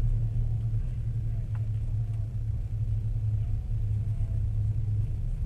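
Steady low rumble of a moving train, heard from inside the carriage, with a faint click about a second and a half in.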